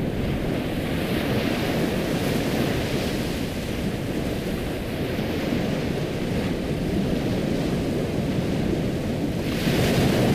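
Ocean surf: waves washing in as a steady rushing noise, swelling about a second in and again near the end.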